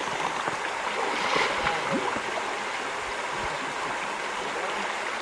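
River water flowing in a steady current, with a brief louder splash about one and a half seconds in.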